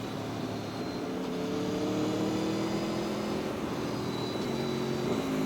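Aprilia Tuono V4 1100 RR's V4 engine running under riding load, its pitch rising gently over the first few seconds and then holding steady, with wind rush and road noise around it.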